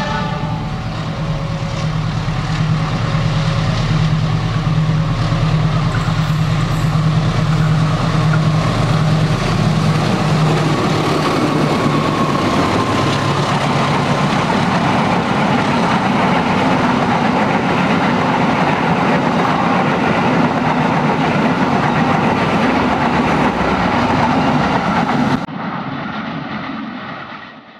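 CC 206 diesel-electric locomotive approaching with a steady low engine drone, then passing. The drone gives way to a steady rushing noise and clickety-clack of wheels on rail as the passenger coaches go by. About 25 seconds in the sound drops sharply, then fades out near the end.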